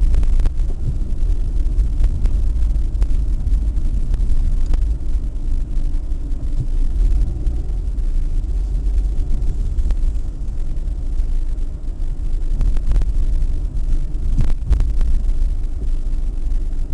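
Steady low rumble of a moving road vehicle, engine and road noise, with a few faint clicks.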